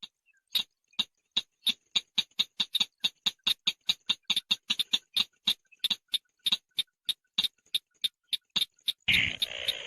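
A chàng nghịch bird calling: a long run of short, sharp ticking notes at about five a second, breaking into a dense song phrase near the end.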